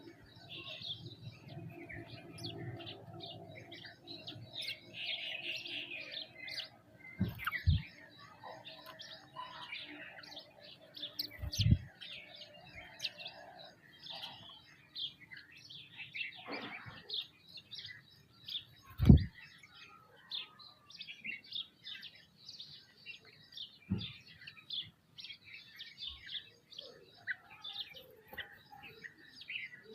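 Flock of small birds chirping and calling over one another as they feed. A few sharp thumps break in, about a quarter, two fifths and two thirds of the way through, the last the loudest.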